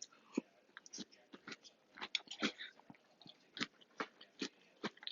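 Close-up chewing of Cinnamon Toast Crunch cereal in milk: a quiet, irregular string of crunches and small crackles.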